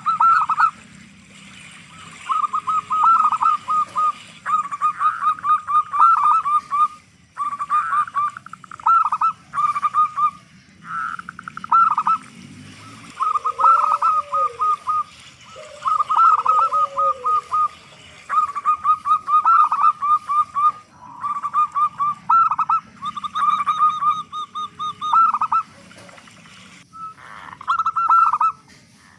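Zebra dove (perkutut) singing its cooing song: phrases of rapid staccato notes, one after another with short pauses between them.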